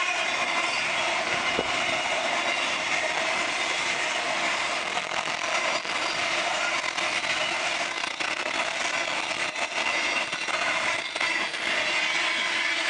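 Freight train rolling past on the line, a steady rumble and rail noise, with scattered sharp clicks of wheels over rail joints from about five seconds in.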